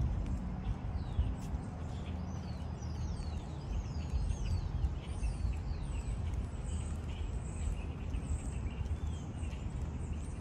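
Birds chirping in a run of quick, falling notes over a steady low outdoor rumble.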